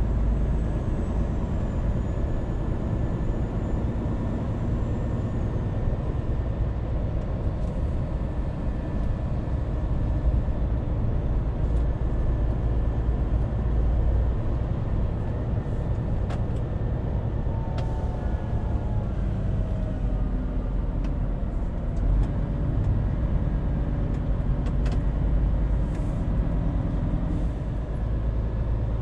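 Scania truck running on the road: a steady low engine rumble with road noise. The engine's pitch drops somewhat a little past the middle, then holds steady again.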